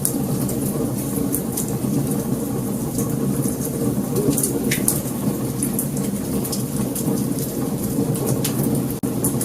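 Wood fire burning: a steady low rumble of flames with scattered sharp crackles and pops, and a brief high squeal about halfway through.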